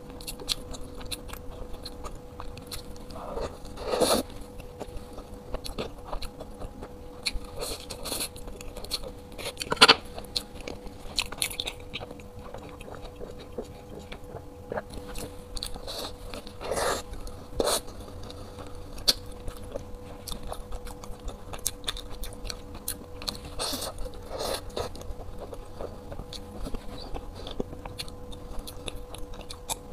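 Close-miked eating: bites and chewing of a soft, crusty black bun with a runny filling, with small wet mouth clicks and a few louder bites every several seconds, the loudest about ten seconds in. A faint steady hum runs underneath.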